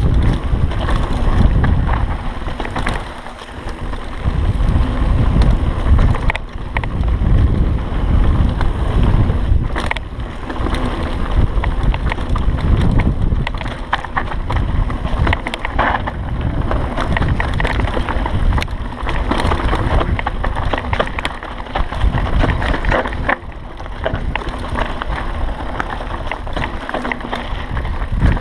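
Mountain bike riding down a dirt singletrack: wind buffeting the microphone, with the bike knocking and rattling over bumps in the trail.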